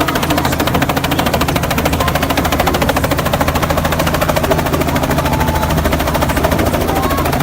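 Helicopter running close by: rapid, even rotor blade chop over a steady low engine drone, loud and unchanging.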